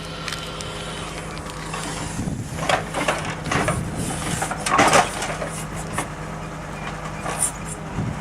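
KAMAZ timber truck's diesel engine running steadily while logs are loaded with a crane. From about two to five seconds in there are several wooden knocks and clatters as logs bump together and land on the load, the loudest near the five-second mark.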